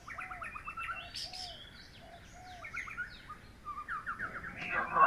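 Several birds chirping and calling: quick runs of short down-slurred chirps, with a lower arched call repeated over and over beneath them. Near the end comes a louder, rough burst of sound.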